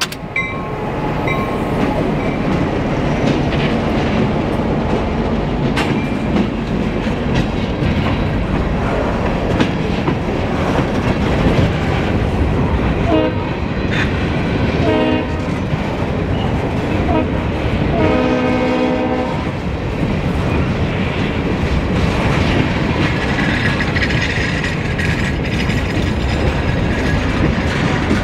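Goose Lake Railway freight train passing close by: the diesel locomotives and then the freight cars rumbling and clattering steadily over the rails. About halfway through, the locomotive horn sounds two short blasts and then a longer one.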